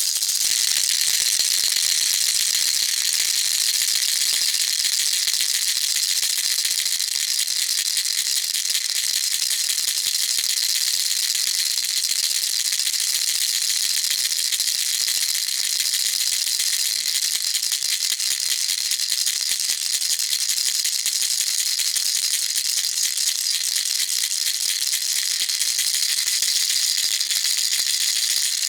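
Baby rattle shaken continuously: a steady, fast, dense rattling of small beads with no pauses.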